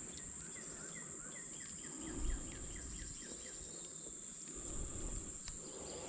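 Outdoor insect chorus: a steady high-pitched drone of crickets or similar insects, with a quick run of short chirps during the first half and a soft bump about two seconds in.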